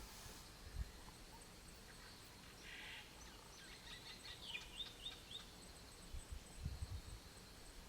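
Faint bird chirps, a short run of quick calls in the middle, over a quiet outdoor background. A few low thumps come near the end.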